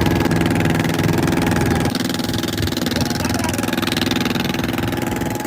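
Fishing boat's engine running steadily at idle, a low pitched hum that eases a little about two seconds in.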